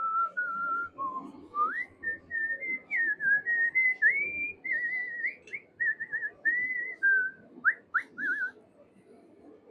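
A man whistling a tune, a string of held and sliding notes, which stops about a second before the end, with a faint low noise underneath.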